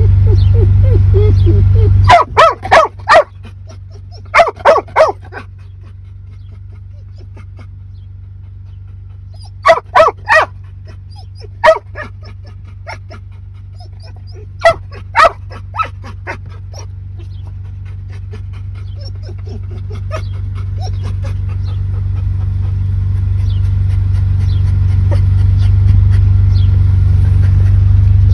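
A dog barking in short bursts of one to four barks, several times over, above a steady low rumble.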